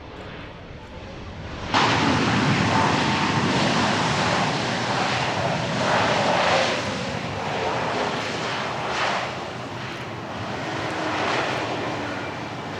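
Jet aircraft engines, loud and sudden from about two seconds in, swelling and fading as the aircraft flies past, with a faint whine that falls in pitch.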